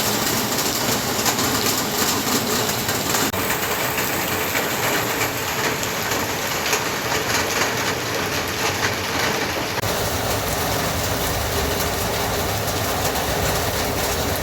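Heavy rain falling, a loud steady hiss with dense fine pattering; its tone shifts abruptly about three and ten seconds in.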